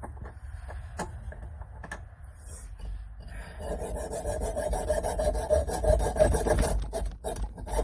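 A hand tool rasping across a freshly cut edge. Light clicks and handling come first, then about three seconds in a continuous, rough scraping starts and grows louder.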